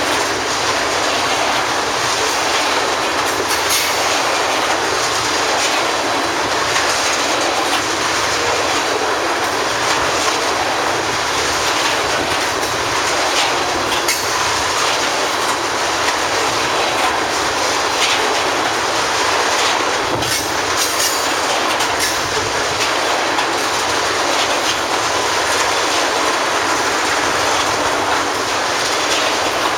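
Tank cars of a freight oil train rolling past: a steady rumble of steel wheels on rail with scattered clicks as the wheels cross rail joints.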